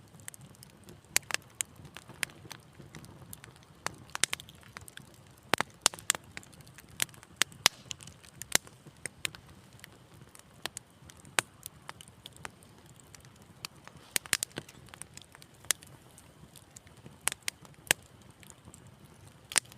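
Wood fire in a fireplace crackling: irregular sharp pops and snaps, a few each second, over a soft low rumble of the flames.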